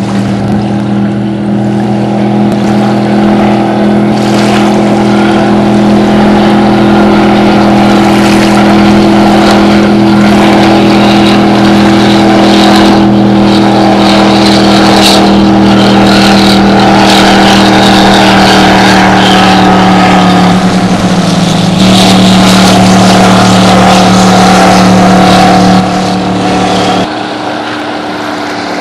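Bayliner speedboat's engine running steadily at high revs under way, with a rushing hiss of water and wind over it. The engine note sags slightly about two-thirds of the way through and drops back to lower revs near the end.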